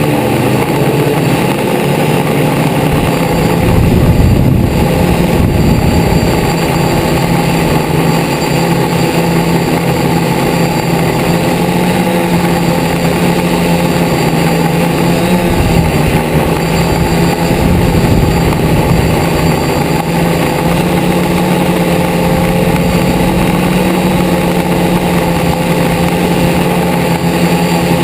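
DJI Flamewheel quadcopter's motors and propellers buzzing steadily at a near-constant pitch as it hovers, heard from the GoPro mounted on it, with a brief swell in level about four seconds in.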